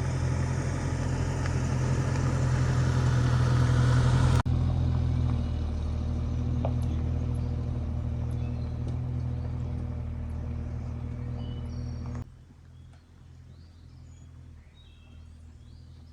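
Vehicle engine running steadily, with a noisy wash over a low hum. It drops away suddenly about twelve seconds in, leaving faint bird chirps.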